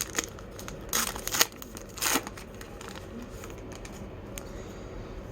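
A trading card pack wrapper crinkling and tearing as it is opened by hand, in three short rustles within the first couple of seconds.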